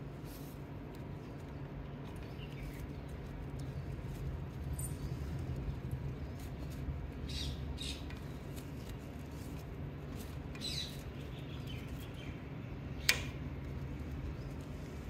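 A few faint, short chirps from an Alexandrine parakeet over a steady low hum, with one sharp click about thirteen seconds in.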